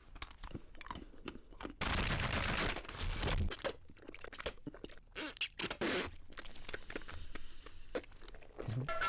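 Close-miked mukbang-style eating: crunchy biting and chewing, with many irregular crunches and scraping sounds.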